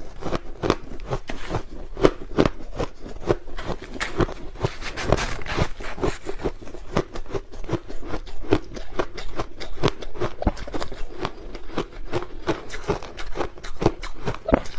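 Close-up crunching of crushed ice being bitten and chewed: rapid, irregular sharp cracks, several a second without a break.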